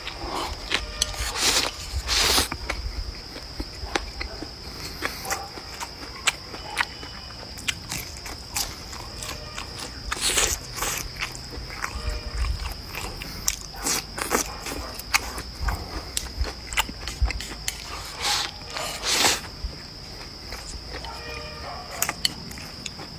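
A person eating: irregular crunches, bites and short clicks of chopsticks against a bowl. Behind them runs a steady high insect trill.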